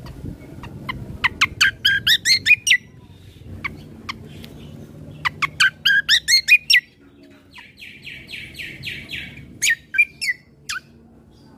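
Kecial kombo (cucak kombo, the great iora) singing: two quick runs of loud, sharp whistled notes, then a buzzy rattling call and a few separate notes near the end, over a low background hum.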